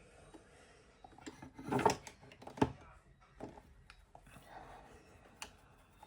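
A few light clicks and knocks of small makeup items being picked up and set down, the loudest pair about two seconds and two and a half seconds in, over faint room tone.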